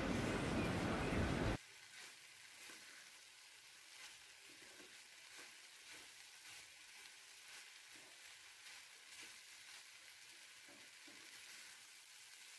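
Fried rice being stirred and tossed with a spatula in a kadai over a low flame: a faint sizzle with light scraping clicks of the spatula against the pan. A louder rushing noise fills the first second and a half and cuts off suddenly.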